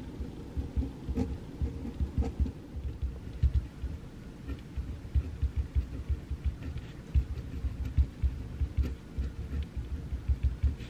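Pencil writing on paper at a desk: a continuous, irregular patter of soft low knocks with a few faint sharper clicks.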